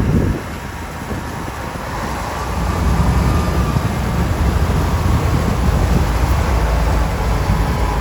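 Heavy snow-removal machinery running, a steady low engine rumble that grows louder about two and a half seconds in.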